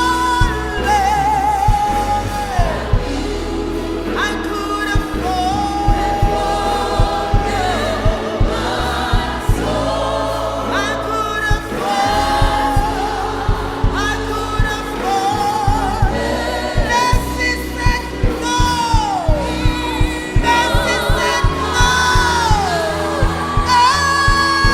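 Gospel worship song: singing with long held, wavering notes and gliding falls in pitch, over a band with deep bass and a steady beat.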